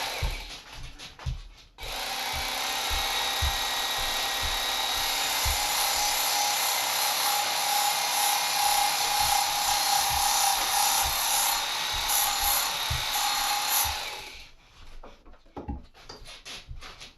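Belt grinder running steadily for about twelve seconds as a lopper blade is ground, starting abruptly a couple of seconds in and dying away near the end. It is framed by light knocks of handling.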